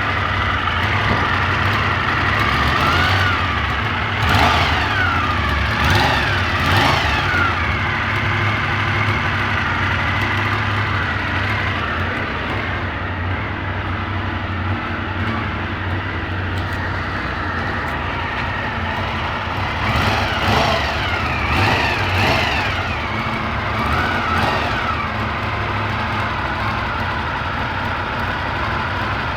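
Honda VFR400R NC21's V4 engine idling, with a run of quick throttle blips about four seconds in and another about twenty seconds in. It makes a strange exhaust noise, caused by a failed exhaust O-ring that needed replacing.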